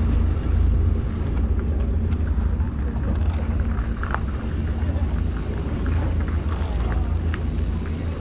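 Wind buffeting a GoPro's microphone outdoors: a steady, uneven low rumble, with a few faint clicks scattered through it.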